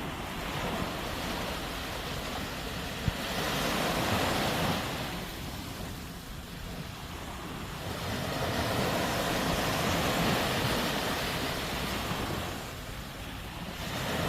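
Sea waves breaking and washing up the shore, two surges swelling and ebbing about six seconds apart.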